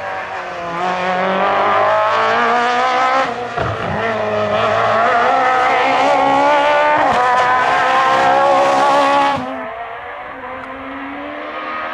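Group F2000 rally car's naturally aspirated engine accelerating hard, its pitch climbing, with quick upshifts about three and a half and seven seconds in. About nine and a half seconds in, the sound cuts abruptly to a quieter, lower, steadier engine note.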